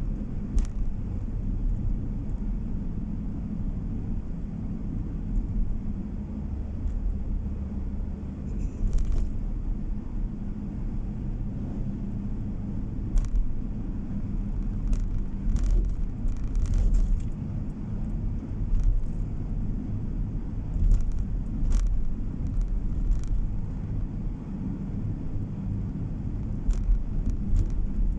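Road noise heard from inside a moving car: a steady low rumble of engine and tyres on the road, with scattered short clicks and knocks.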